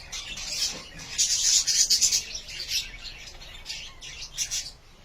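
Budgerigars chattering, a rapid run of short, scratchy chirps and squawks, busiest about a second in.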